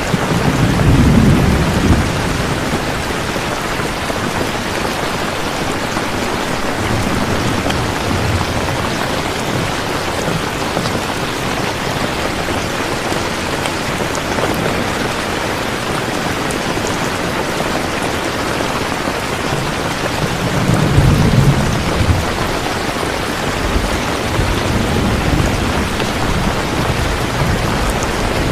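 Steady heavy rain, with low rolls of thunder rumbling about a second in and again past the middle.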